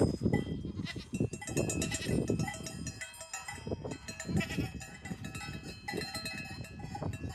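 Goat bells clanking as the animals move, several bells at different pitches ringing and overlapping, struck again and again. Irregular low rustling and thumps run underneath.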